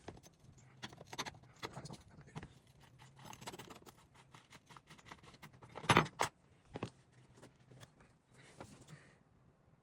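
Light clicks, rattles and handling noise of small tools and plastic and metal trimmer parts being worked on by hand, with one sharp, louder knock about six seconds in and a smaller one a second later.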